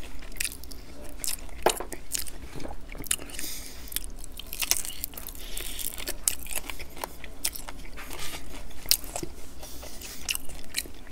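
Close-miked biting and chewing of fried chicken coated in sweet and sour sauce, with many short sharp crackles throughout.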